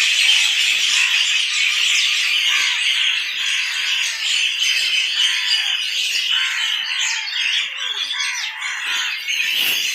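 A flock of small birds chirping and chattering together in a dense, continuous chorus of many overlapping short calls.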